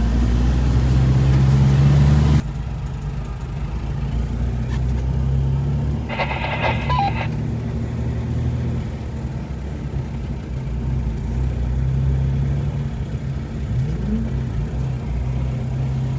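Jeep engine running at a slow idle-along pace, heard from inside the vehicle. A louder rushing noise cuts off abruptly about two seconds in, and a brief electronic beeping tone sounds about six seconds in.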